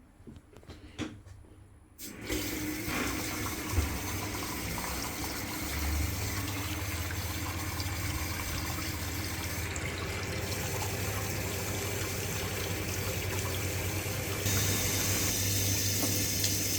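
A hot water tap is turned on about two seconds in and runs steadily into a sink, drawing hot water to test the Bosch boiler. A steady low hum joins about six seconds in, and the flow gets louder near the end.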